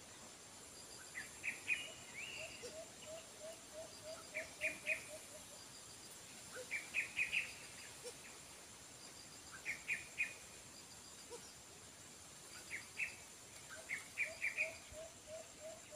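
Birds calling in the trees: clusters of three or four short, sharp chirps every two to three seconds, with a soft, quick run of low repeated notes twice, and a faint steady high insect drone underneath.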